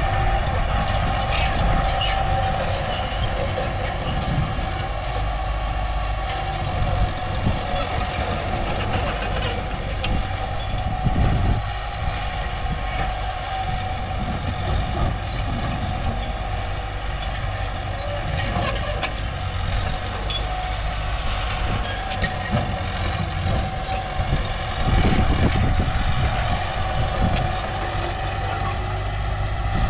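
Heavy diesel machinery running steadily: a deep engine rumble with a constant high whine over it.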